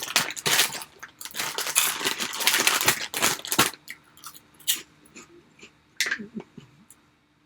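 Crackling, rustling bursts of food packaging being handled for about three and a half seconds, then a few light clicks and taps.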